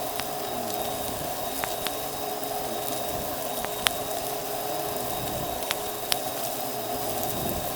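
Vacuum cleaner running steadily with its brushroll spinning, with a few sharp clicks of bits of debris being picked up.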